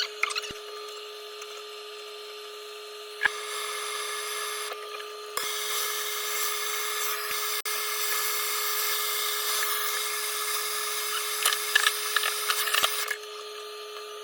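A power tool running in two stretches: briefly a few seconds in, then again for about eight seconds before stopping.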